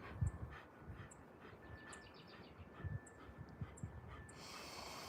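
Alaskan malamute breathing and snuffling quietly close up, heard as soft low puffs.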